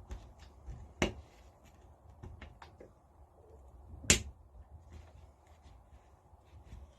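Small clicks and knocks of tools and metal parts being handled as the cover of the engine's ignition is taken off: a sharp knock about a second in, a louder one about four seconds in, with light ticks between.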